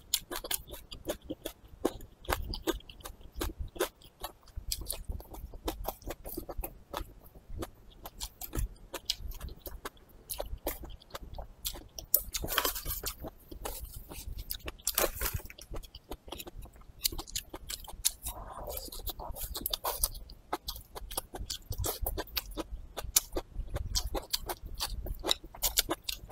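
Close-miked wet chewing and lip smacking as a person eats braised meat, a dense run of quick irregular clicks. A couple of brief soft rustling bursts come about halfway through.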